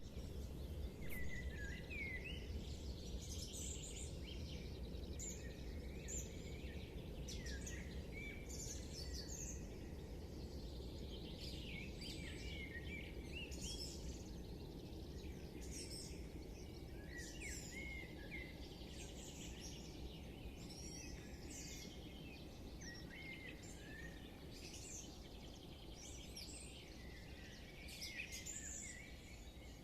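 Several birds singing in a morning chorus, many short chirps and trills overlapping, over a steady low background rumble.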